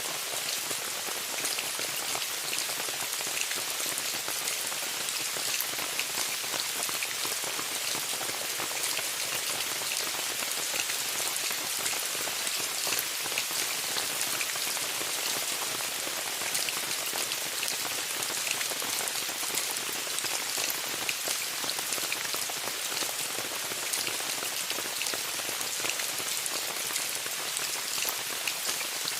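Steady rain pattering on a tent, a dense even hiss of countless fine drop impacts with no letup.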